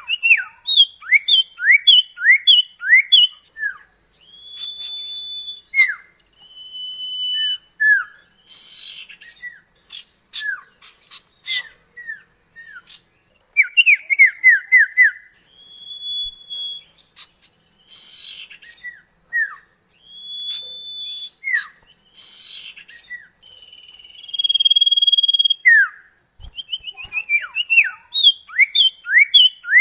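Common iora (cipoh kacat) singing continuously. Rapid runs of short down-slurred whistled notes alternate with a few long, level whistles.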